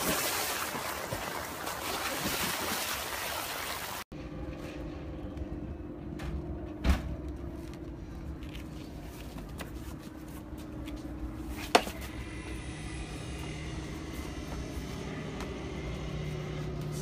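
Water splashing hard as a person thrashes in a shallow pond, cut off abruptly about four seconds in. After it, a steady low hum with two sharp knocks about five seconds apart.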